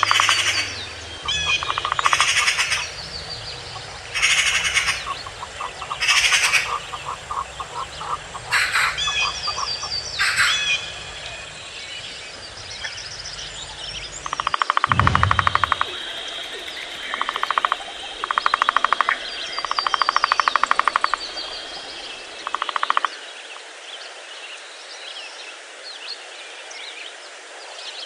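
Birds calling in a forest: short, rapid rattling calls repeated every second or two, with fainter chirps between them. Near the end the calls die away, and a low rumble under them stops suddenly.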